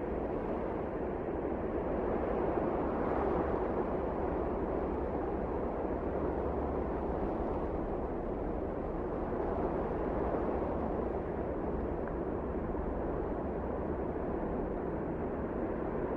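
Wind blowing in a steady rushing gust, building in strength over the first few seconds and then holding.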